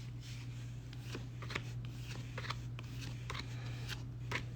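Pokémon trading cards being handled: short, crisp slides and flicks as cards are thumbed through one after another, over a steady low hum.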